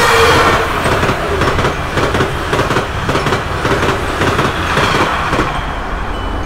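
Passenger train passing at speed: a loud, steady rumble and rattle of wheels on rails, with faint regular clicks of the wheels over rail joints. It comes in suddenly at full strength.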